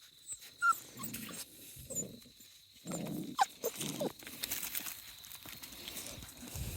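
Young Australian Shepherd/Border Collie mix puppies, about five and a half weeks old, making short whimpers and yips that slide down in pitch, with a few lower grumbling sounds and scuffling as they play. The sharpest yip comes about three and a half seconds in.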